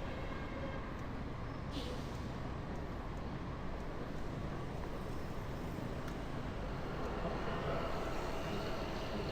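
Steady city street traffic heard from a moving bike: engines of passing vehicles, with a low rumble of wind on the microphone.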